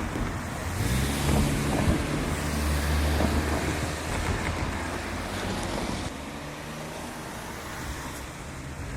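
Diesel locomotive engine running, a steady low drone that drops away abruptly about six seconds in, with wind rushing on the microphone.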